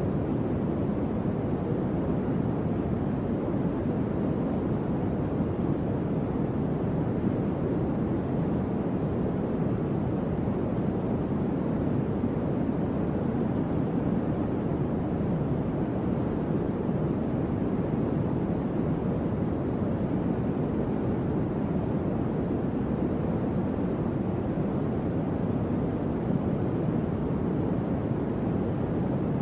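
Electric fan running steadily: an even, low whooshing hum of air with no change in speed.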